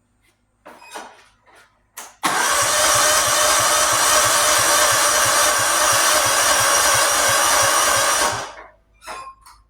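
Electric starter cranking an old lawnmower's engine for about six seconds without it firing, with a steady whir and a rhythmic chug about four times a second, then cutting off. A few short clicks come before it. The owner takes the failure to start for a battery too low to turn it over well.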